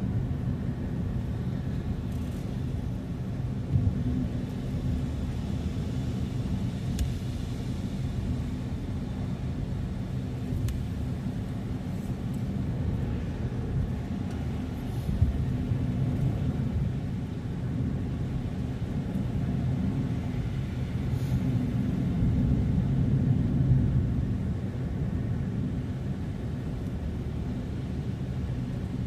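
A car being driven: a steady low rumble of engine and tyres on the road, with a couple of brief knocks.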